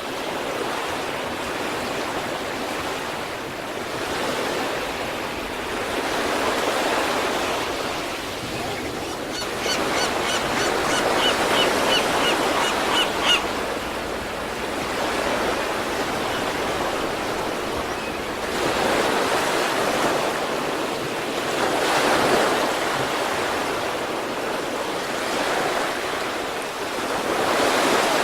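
East Sea surf: waves breaking and washing up the shore, the rush of water swelling and easing in successive surges every few seconds. A quick run of short, high chirps comes in about ten seconds in and lasts some three seconds.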